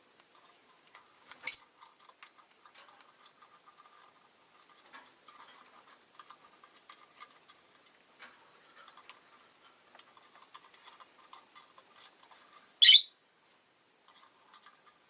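Peach-faced lovebirds: two brief, shrill calls, one about a second and a half in and one near the end. Between them comes soft ticking, clicking and quiet chatter.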